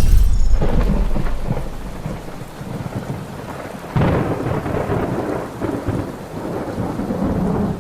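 Thunderstorm: steady rain with thunder rumbling. One rumble fades over the first couple of seconds, and a new thunderclap breaks in about four seconds in and rolls on.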